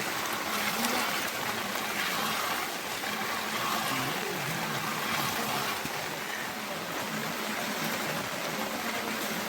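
Steady rushing of water, a continuous even hiss with no breaks, typical of a stream or heavy rain running off during a monsoon downpour.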